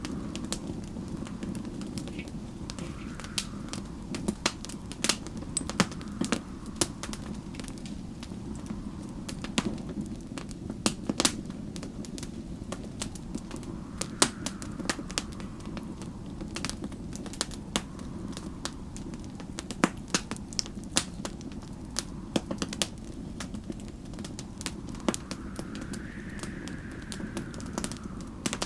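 Wood fire crackling, with irregular sharp pops over a steady low rumble. Faint howling wind of a snowstorm swells and fades in gusts, most clearly near the end.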